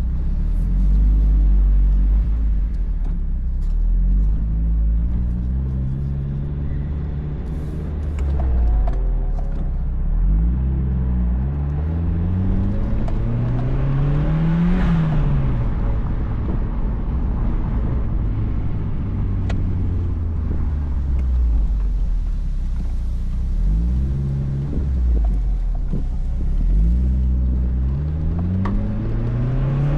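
2004 Mazdaspeed Miata's turbocharged 1.8-litre four-cylinder running through a Flyin' Miata cat-back exhaust while driving. The revs climb and drop repeatedly with throttle and gear changes, and are highest about halfway through.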